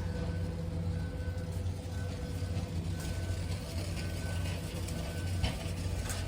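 Store background noise: a steady low hum with light mechanical rattling and a few sharp clicks.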